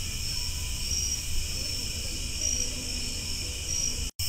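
Chorus of night insects, a steady trilling with a higher pulsing call that repeats every second or two, over a low rumble. The sound drops out completely for a moment near the end.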